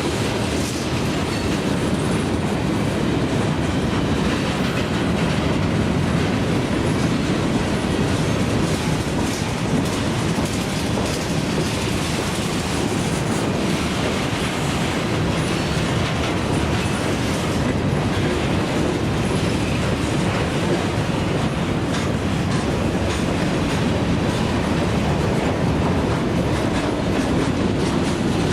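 CSX freight train cars rolling past in a steady rumble, wheels clicking over the rail joints.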